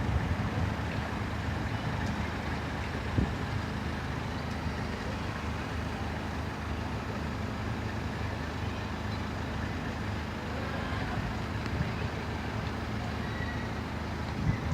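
Steady low hum of idling road-vehicle engines and street traffic.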